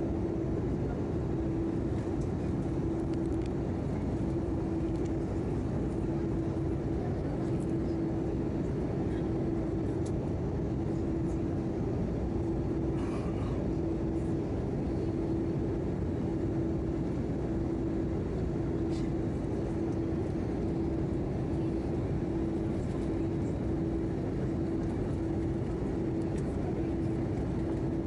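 Airbus A319 cabin noise in flight: the steady rush of air and CFM56 turbofan engines, with a droning engine tone that swells and fades about every second and a half.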